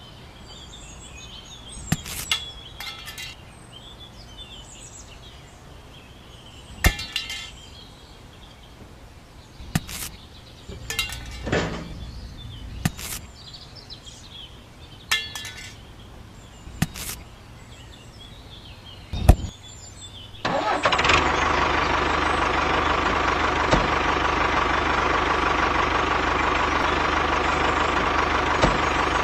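Scattered sharp knocks and clicks, with faint bird chirps. About two-thirds of the way through, a small engine-like motor starts suddenly and runs steadily and loudly.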